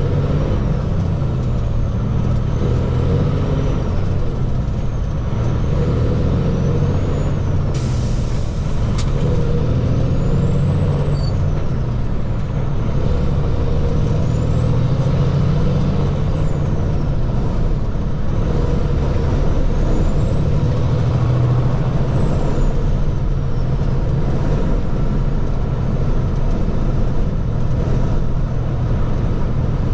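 Water truck's engine running steadily with a deep rumble, with a short burst of hiss about eight seconds in.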